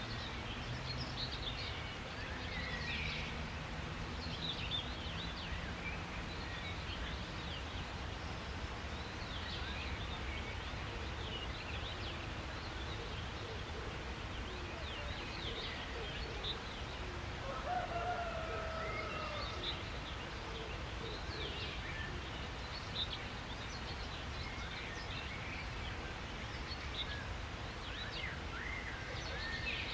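Many small birds chirping over a steady outdoor background hiss, with short high calls throughout. A longer, lower whistled call comes a little past the middle.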